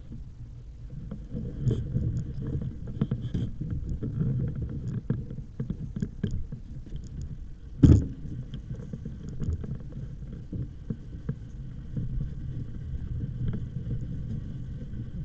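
Low rumble of wind on the microphone and rolling noise while riding an e-bike, with scattered clicks and one sharp knock about eight seconds in.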